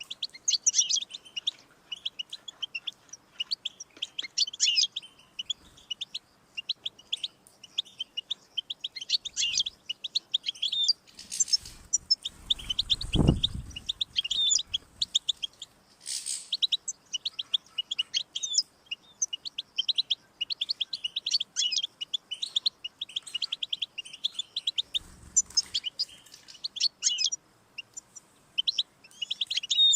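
European goldfinch singing: fast twittering phrases of high chirps with short pauses between them. A low rumble swells in the middle, and a shorter one comes near the end.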